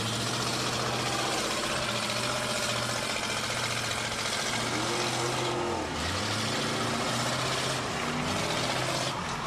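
Demolition derby car engines running hard and revving, with a steady din.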